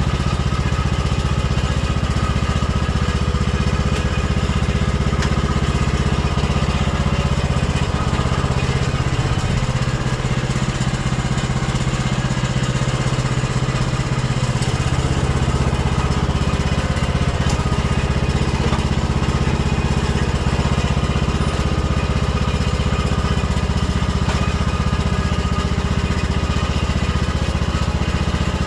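Tractor engine running steadily. Its low rumble thins for a few seconds in the middle, then returns.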